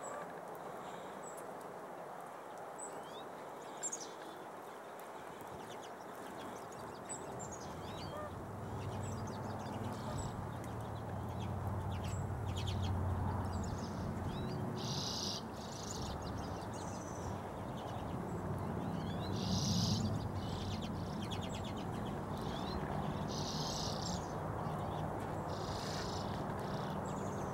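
Small birds calling: scattered high chirps and several short buzzy calls, over steady background noise with a low rumble that builds from about a third of the way in.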